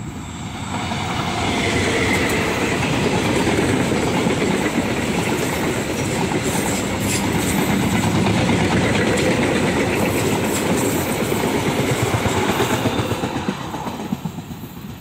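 Diesel-hauled KA Matarmaja passenger train passing close by, its locomotive followed by a long rake of coaches with wheels clattering steadily over the rail joints. The sound builds over the first couple of seconds and fades near the end as the train moves away.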